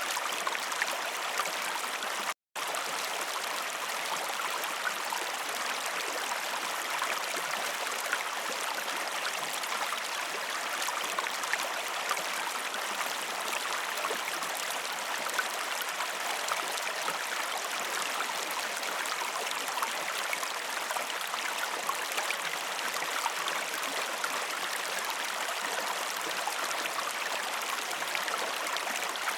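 Waterfall: water splashing and running in a steady rush, with one very brief drop-out to silence about two and a half seconds in.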